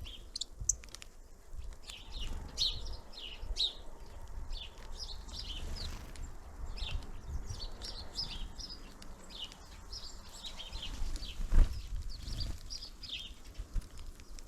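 Small songbirds at a feeder calling in many short, high chirps throughout, over a low rumble, with one sharp knock a little past the middle.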